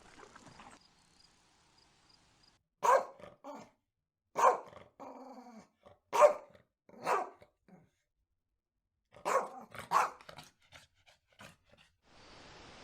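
A dog barking: sharp single barks in short groups with pauses between, and a low drawn-out growl about five seconds in.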